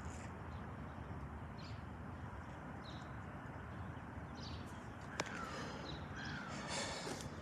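Birds calling outdoors: a few short, scattered calls over a steady low background rumble, with one sharp click about five seconds in.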